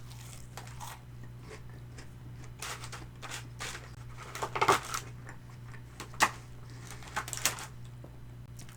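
Scattered crisp clicks and crackles of eating and handling crispy fried chicken and takeout sauce cups, loudest a little before the middle, over a low steady hum.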